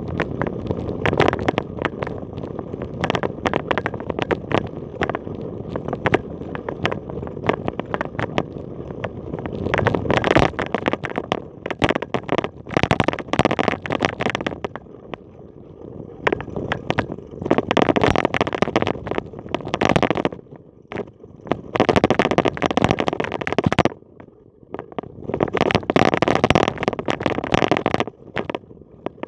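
Bicycle riding along a path: tyres rolling with dense crackling and rattling that comes in surges a few seconds long, mixed with wind on the microphone.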